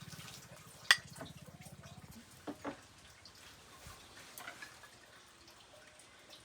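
Kitchenware clatter: one sharp clink of a dish or utensil about a second in, then two lighter knocks and a few small ticks, over a low pulsing hum that stops about two seconds in.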